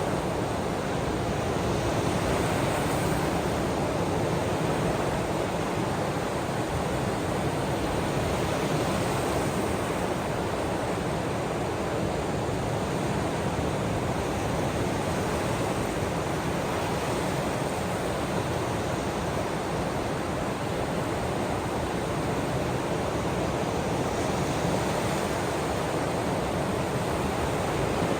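Ocean waves washing in a steady, even rush of water noise, with no distinct breaks standing out.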